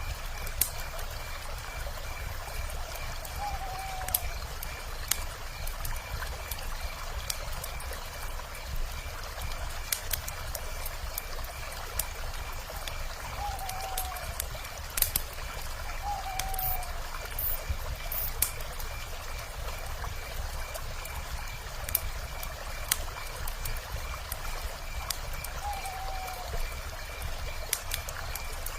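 Wood fire crackling with scattered sharp pops over steady flowing river water. A rapid high pulsing chirp runs on underneath, and four short falling calls come through, two of them close together in the middle.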